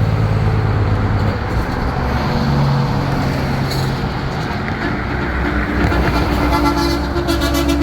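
Diesel big-rig trucks rolling past with their engines running; about five seconds in, a truck air horn starts blowing and is held to the end.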